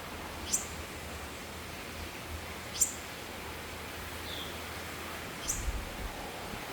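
A bird calling with short, high-pitched chirps, three of them about two and a half seconds apart, each a quick falling note, with a fainter call between, over steady outdoor background noise.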